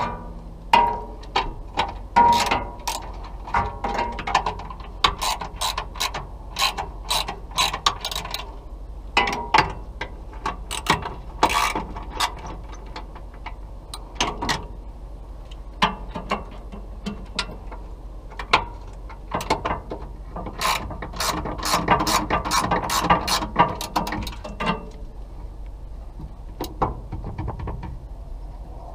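Metal clicks from a ratchet wrench on RV step linkage hardware, coming in irregular spurts of sharp clicks with short pauses between.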